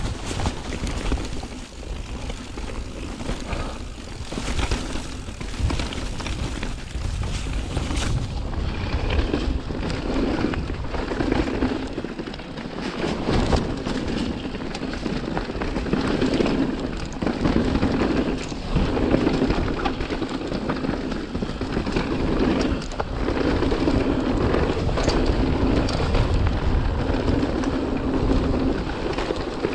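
Mountain bike riding down a wet trail, heard from a rider-mounted camera: wind buffeting the microphone over the rolling tyres, with frequent knocks and rattles from the bike over rough ground, rising and falling in loudness.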